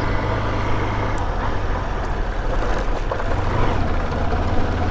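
Honda Unicorn motorcycle's single-cylinder engine running steadily.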